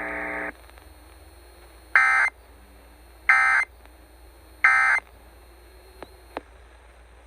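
Weather radio broadcast ending a warning: a steady buzzy tone cuts off about half a second in. Then come three short, harsh data bursts about 1.3 s apart, the EAS/SAME end-of-message code, and two faint clicks follow over low hiss.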